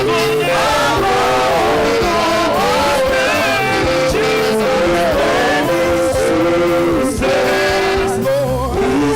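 Church worship song: a sung melody over instrumental band accompaniment.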